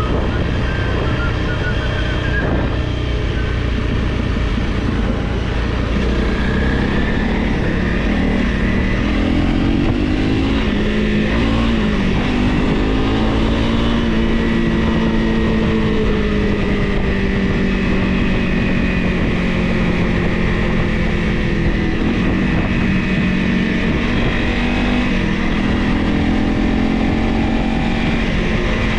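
Honda CRF Rally motorcycle's single-cylinder engine running while riding. Its pitch rises and falls with throttle changes about ten to thirteen seconds in, then holds fairly steady.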